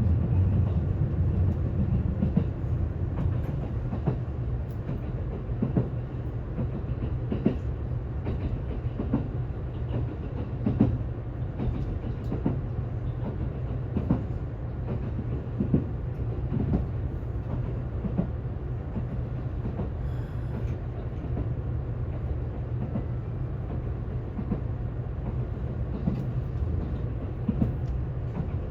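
Kintetsu ACE 22000 and Ace 22600 series limited express train running, heard from inside the car: a steady low rumble with the wheels clicking over rail joints at irregular intervals, about once a second.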